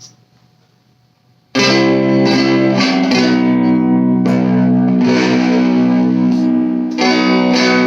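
Electric guitar played through an all-tube amp with the gain turned up, strummed chords left to ring with long sustain. The chords start about a second and a half in and are struck again several times.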